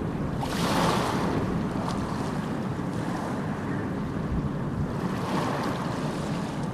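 Sea waves: a steady rush of surf, with one wave surging and breaking about half a second in and a softer surge about five seconds in.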